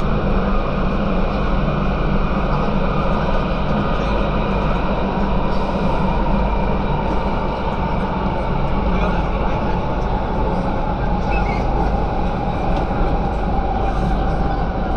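MTR South Island Line S-train electric metro car running between stations: a steady rumble of wheels on rail, with a faint motor whine that slowly falls in pitch through the second half.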